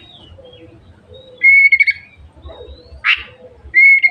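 Oriental magpie-robin singing: a loud, long whistle held on one note, a short harsh rasping note about three seconds in, then another long whistle starting near the end.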